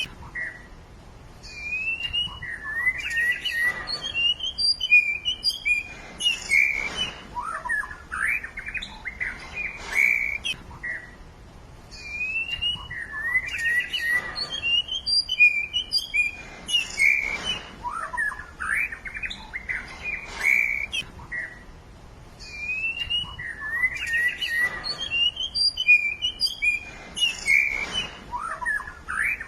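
Songbirds singing: a busy run of quick chirps, trills and short whistled notes. The same sequence of song repeats about every eleven seconds.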